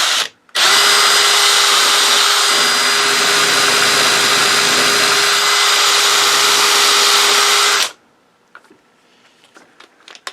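Electric hand drill with a 1/4-inch bit drilling at a circuit breaker's rivet: two quick trigger blips, then a steady run of about seven seconds that stops abruptly. It fails to get through the rivet.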